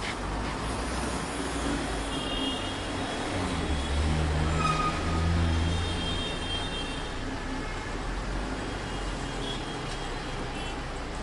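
Road traffic noise, with a louder low engine rumble from a passing vehicle swelling between about four and six seconds in.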